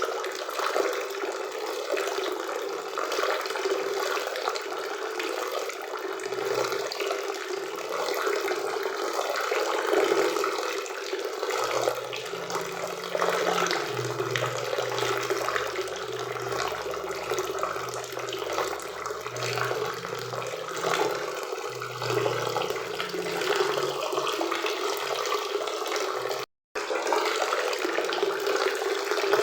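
Waterfall and river water rushing steadily, with a split-second dropout to silence near the end.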